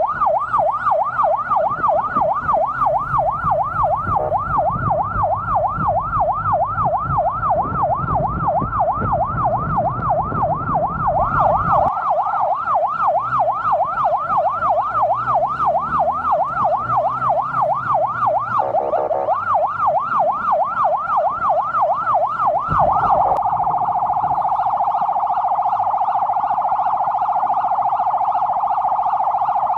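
Emergency vehicle siren on a fast yelp, its pitch rising and falling about three times a second over a low engine rumble; about two-thirds of the way through it switches to a much faster warble.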